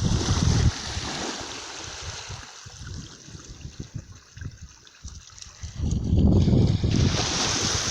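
Sea water lapping and trickling at the shoreline, with wind buffeting the microphone at the start and again from about six seconds in.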